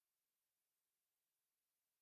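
Near silence: only a faint, steady electronic hiss.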